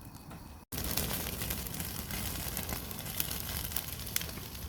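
Beef sizzling on a grill over a wood fire, with the crackle of burning wood: a steady hiss full of small pops. It cuts out briefly under a second in, and the sizzling comes back louder.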